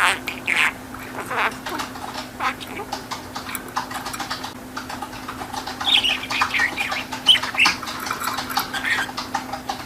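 Budgerigar chattering: a steady run of short chirps, squeaks and quick warbling glides, over a steady low hum.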